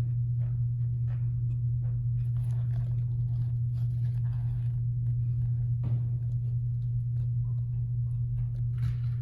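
Packed cornstarch being squeezed and pressed by hand, giving many short, irregular squeaky crunches. A steady low electrical hum runs underneath and is the loudest thing throughout.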